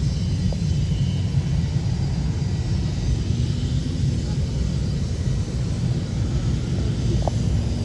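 Aeroplane engine noise: a steady low rumble with no clear rise or fall.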